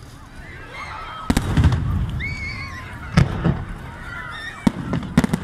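Aerial firework shells bursting overhead: several sharp bangs starting about a second in, with high gliding calls between them.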